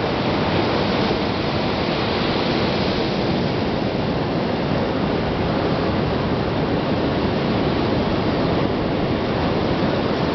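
Steady wash of ocean surf mixed with wind, an even rushing noise with no distinct strokes.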